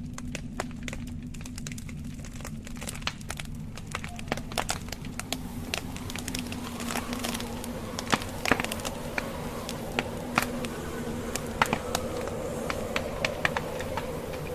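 Wood fire in a fireplace crackling, the logs giving off many sharp snaps and pops, with several louder ones in the second half, over a steady low rumble.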